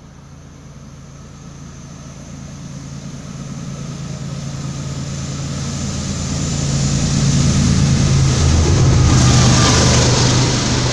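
Diesel locomotives of a BNSF freight train approaching and passing close by, their engine drone growing steadily louder. It peaks about nine seconds in as the lead units pass beneath, where a hiss joins the drone.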